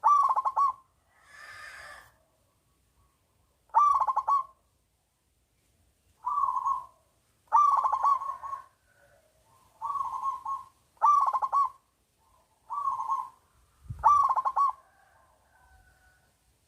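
Zebra dove (perkutut) cooing: short phrases of rapid, stuttering coos, repeated about eight times with gaps of one to three seconds.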